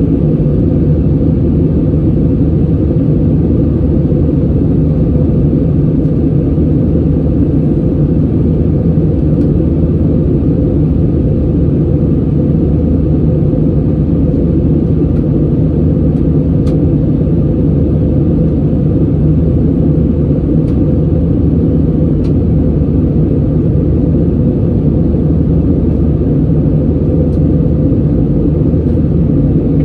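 Steady low rumble of airliner cabin noise in flight: jet engines and airflow heard from inside the passenger cabin.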